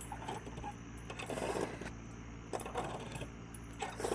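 Metal swing chains clinking and creaking in a steady rhythm, about once every second and a quarter, as the swing goes back and forth.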